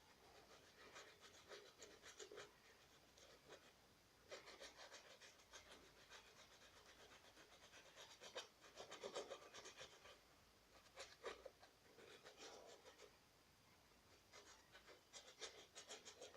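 Faint bursts of quick scratching and rubbing strokes, about five groups separated by short pauses: a paintbrush working gouache paint.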